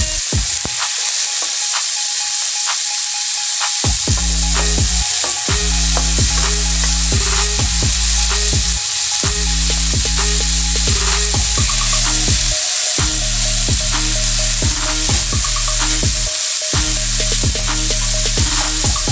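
Sliced onion, tomato and bell pepper sizzling in hot oil in a metal wok, stirred and scraped with a wooden spatula that knocks lightly against the pan now and then. Background music with a steady bass line plays underneath.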